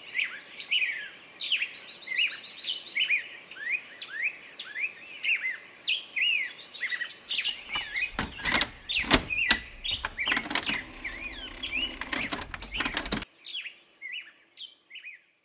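Small birds chirping over and over in short, falling notes. From about seven seconds in, a portable radio-cassette recorder clicks and clatters as a cassette is pushed into its deck and its keys are pressed, with a hiss under the clicks that cuts off suddenly about thirteen seconds in.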